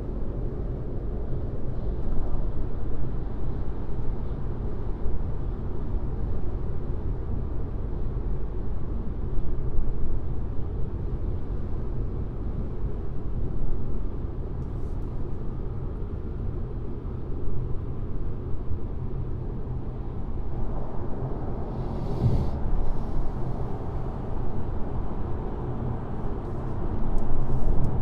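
Steady low rumble of a car driving on a highway: tyre, road and engine noise. A brief louder rush comes about three-quarters of the way through.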